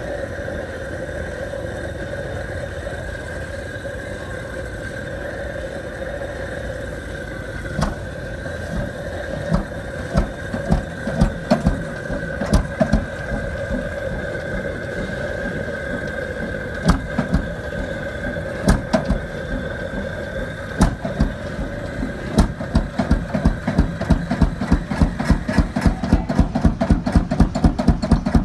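Big old Fairbanks Morse engine cold starting over a steady hum and high whine: about eight seconds in it begins firing with scattered, uneven bangs that come faster and faster, then settles into a fast, even beat.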